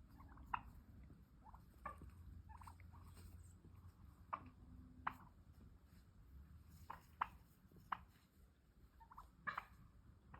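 Turkey clucking: about a dozen short, sharp clucks at irregular intervals, over a faint low background hum.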